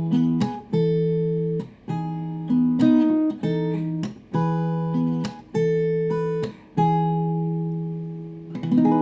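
Acoustic guitar strumming chords with short damped gaps between them, with a last chord struck near the end and left to ring.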